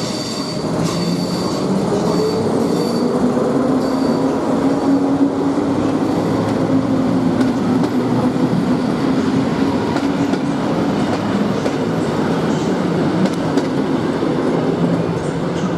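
A train running on rails: regular wheel clicks over rail joints in the first few seconds, over a steady rumble and a drive hum that rises in pitch for a few seconds and then holds.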